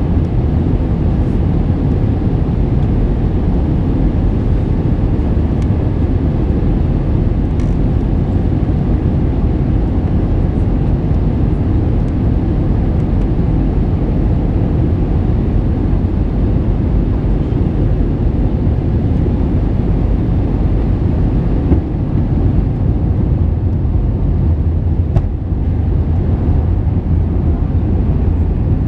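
Steady low rumble of an Airbus A321-231 in flight, heard from inside: the airliner's IAE V2500 engines and the airflow over the fuselage, with a couple of faint knocks late on.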